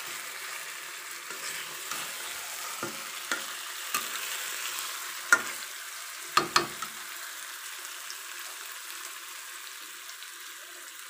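Chicken pieces sizzling in spiced oil in a kadai as they are sautéed in masala, with a metal spatula stirring and clacking against the pan several times in the first seven seconds, the loudest knocks about five and six seconds in. After that only the steady sizzle goes on.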